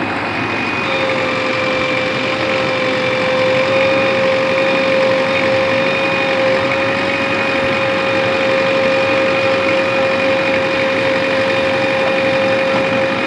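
JCB 3DX backhoe loader's diesel engine running steadily, with a steady high whine held at one pitch.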